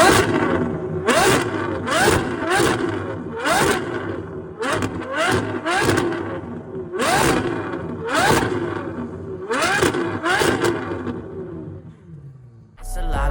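Straight-piped Ferrari V12 exhaust revving in short repeated bursts, about one a second, each rising sharply in pitch and cutting off. The bursts grow gradually fainter and stop shortly before the end.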